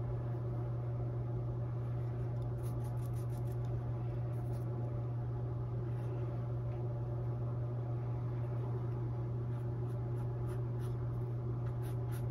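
Steady low hum with faint, scattered scratchy strokes of a paintbrush dabbing and dragging on a stretched canvas.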